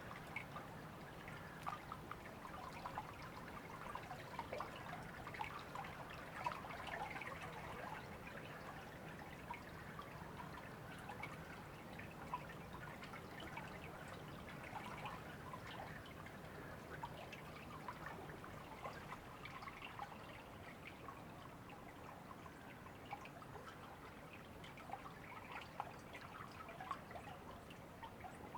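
River flowing, a steady trickling babble of water with a continual patter of small splashes.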